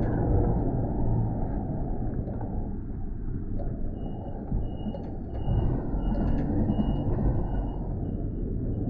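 City street traffic: a steady low rumble of passing vehicles. About four seconds in, a high electronic beep starts repeating roughly twice a second.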